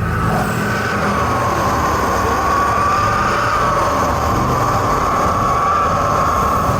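A large engine running steadily under power, with a loud whine that wavers slightly in pitch over a low rumble.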